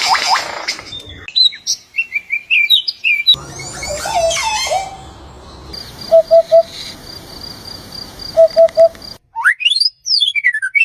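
A run of different bird calls and songs, changing abruptly every couple of seconds: quick high chirps, a low call repeated in two groups of three notes, then fast sweeping whistles near the end.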